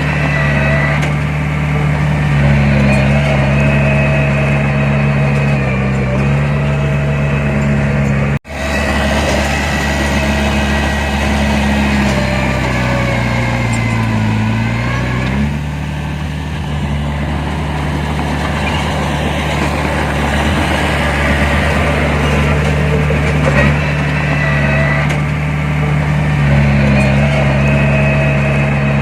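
Heavy diesel engine of earthmoving machinery running steadily. Around the middle its pitch sags for a few seconds and then recovers, as under load. The sound cuts out for an instant about eight seconds in.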